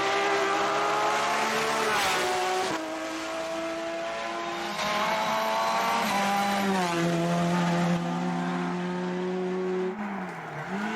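Hillclimb race car's engine at high revs, its pitch climbing and then dropping sharply at a gear change about two seconds in. After further shifts it holds a steady note, with a brief dip near the end.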